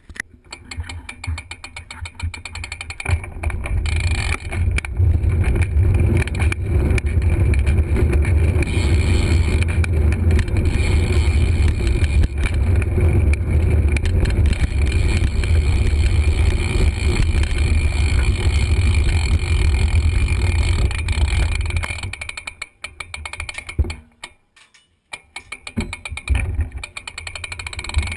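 BMX bike being ridden: wind buffeting the action camera's microphone as a deep rumble, mixed with the clicking and rattling of the bike's freewheel hub and chain. The rumble drops away about three quarters of the way through and picks up again near the end.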